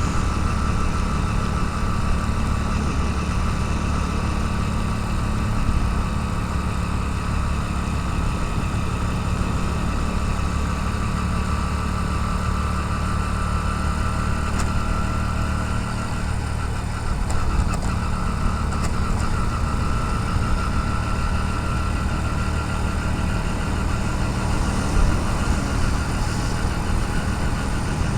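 Motorcycle engine running steadily under way, picked up by a helmet-mounted camera in a waterproof case, with a steady low hum and a faint whine that drifts slowly in pitch.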